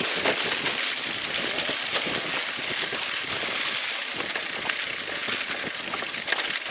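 Mountain bike rattling and clattering over a rough trail, with many small irregular knocks and clicks over a steady rush of wind on the microphone.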